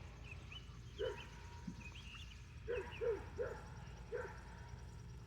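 A dog barking about five short times, with ducklings peeping in high little chirps during the first half.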